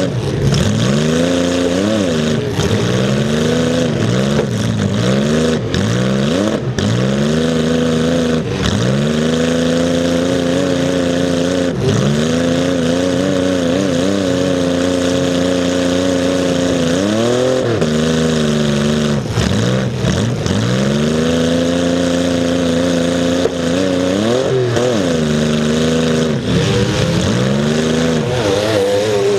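Demolition derby car's engine heard close up from its hood, revving up and dropping back again and again as the car manoeuvres, with a few steadier stretches at held revs. A few sharp bangs cut through the engine noise.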